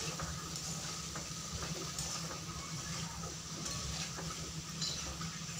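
Diced potatoes, onion and tomato frying in a metal kadhai: a steady faint sizzle, with a few light scrapes and taps as a spatula stirs them against the pan.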